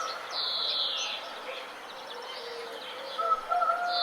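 Birds singing: a downward-sliding phrase of about a second near the start, then clear, steady whistled notes starting near the end.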